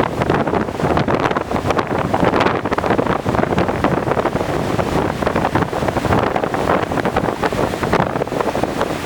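Strong onshore wind buffeting the microphone in uneven gusts, over the rush of heavy typhoon surf.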